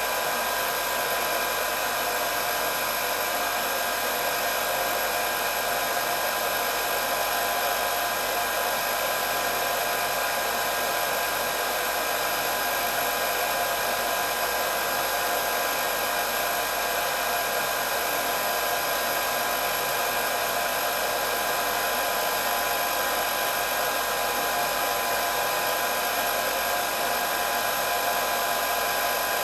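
Electric hair dryer running steadily: a constant whir of blown air with a steady motor whine.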